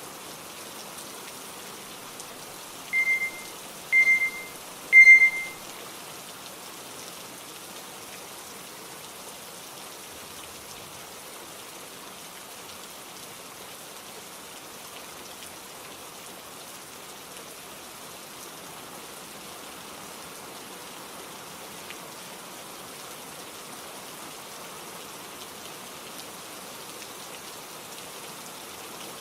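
Steady rain, with three short electronic beeps about a second apart a few seconds in, each louder than the last: a timer signalling the start of a pomodoro study session.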